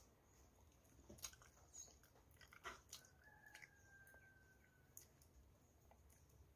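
Very faint chewing of soft banana, with a few small wet mouth clicks, over a low steady hum.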